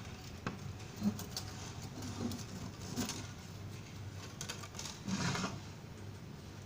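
Scattered light clicks and taps with a short scraping rustle about five seconds in, over a low steady hum.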